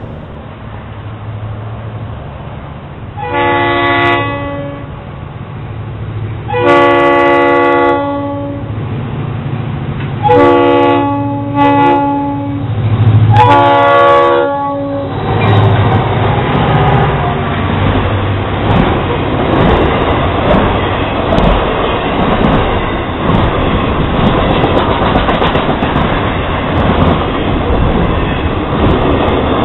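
Freight train at a grade crossing: the lead of two EMD SD40 diesel locomotives blows its multi-tone horn in a series of blasts over the rumble of its engine, the last blast ending about fifteen seconds in. The locomotives then pass, and a long string of intermodal container cars rolls by with a steady rattle and clatter of wheels on rail.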